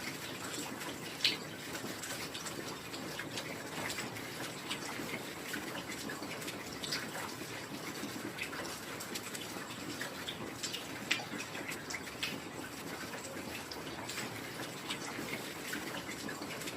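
Steady heavy rain, an even hiss with many individual drops ticking close by and a few louder drip hits, about a second in and again around eleven seconds.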